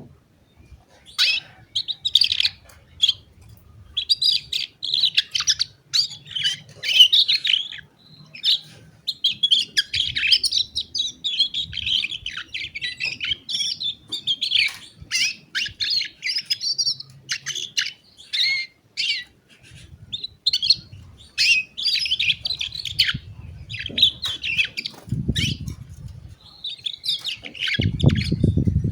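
Domestic canary singing: long runs of rapid, high chirps and trills broken by brief pauses. Low thumps are heard near the end.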